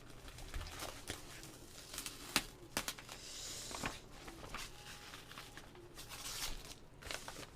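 Paper shopping bags and packaging being handled, rustling and crinkling, with several sharp clicks and taps. There is a longer rustle about three seconds in.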